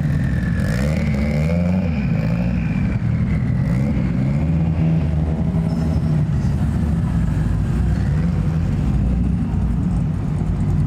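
Car engines running at low speed as cars roll through a meet, a steady low rumble that wavers a little throughout.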